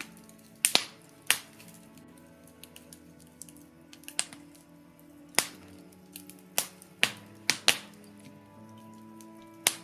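Birch logs burning in a fireplace, crackling with about ten irregular sharp pops and cracks. Underneath runs a soft, sustained musical drone.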